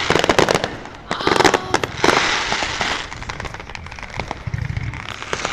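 Fireworks going off: quick clusters of crackling pops, with a spell of hissing about two seconds in, then fainter scattered pops.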